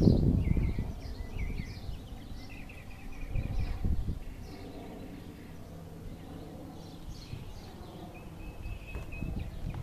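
Small songbirds chirping repeatedly over a faint outdoor background, with one short, steady whistled note about eight seconds in. A low rumble on the microphone fills the first second.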